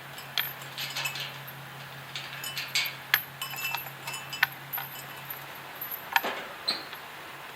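Irregular metallic clinking and jingling, many small sharp strikes, over a steady low hum that stops about three quarters of the way through.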